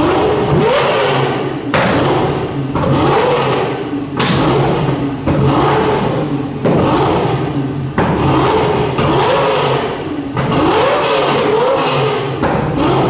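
A Lamborghini Gallardo's V10 engine revved again and again, its pitch climbing and dropping about once a second, with sharp bangs from the exhaust every couple of seconds: a flame-tuned exhaust throwing pops and flames, echoing in a tunnel.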